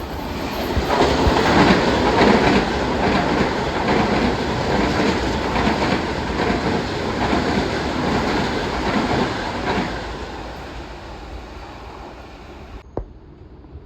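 Long Island Rail Road train running past on the station track, loud wheel-and-rail noise that builds about a second in, holds for several seconds, then fades away.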